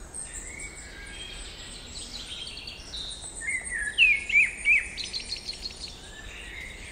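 Wild birds singing and calling over a steady outdoor hiss, with a few loud, sharp chirps near the middle.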